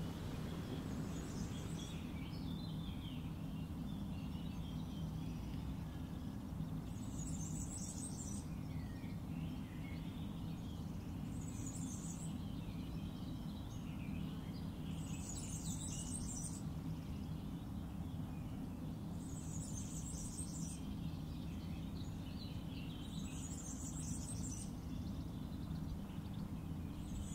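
Birds singing over a steady low background rumble. Scattered chirps run throughout, and a high-pitched song phrase repeats about every four seconds.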